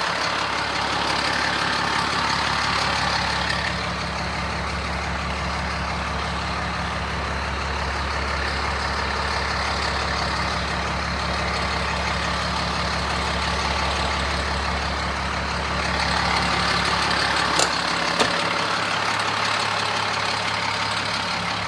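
A 2007 Sterling L7500 garbage truck's 7.2-litre diesel engine idling steadily. Two sharp clicks come near the end.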